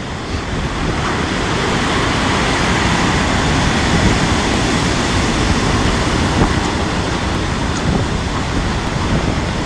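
Storm surf on the Black Sea shore with strong wind buffeting the microphone: a loud, steady rush of noise that swells a little about a second in.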